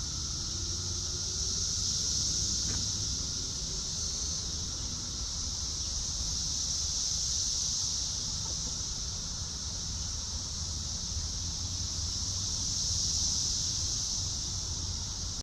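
A steady, high-pitched insect chorus drones without a break, with a low wind rumble on the microphone beneath it.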